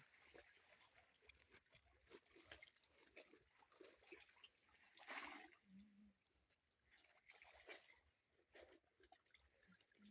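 Near silence, with faint scattered small clicks and rustles and one brief, slightly louder noise about five seconds in.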